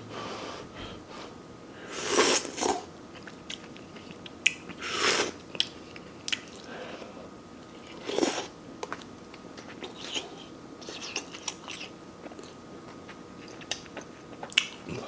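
A person chewing a mouthful of stir-fried noodles and meat close to the microphone, with many small wet mouth clicks. Three louder mouth noises come about three seconds apart.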